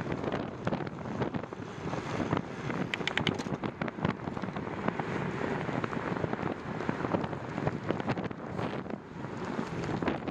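Wind buffeting the microphone during a bicycle ride, a gusty rumbling noise, with a short run of clicks about three seconds in.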